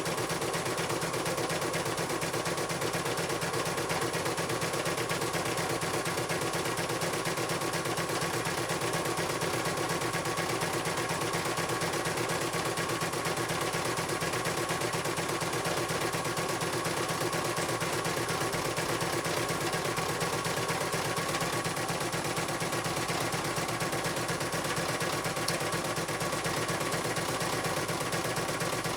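Portable computerized embroidery machine stitching, its needle working in a steady rapid clatter at constant speed with a steady whine from the drive.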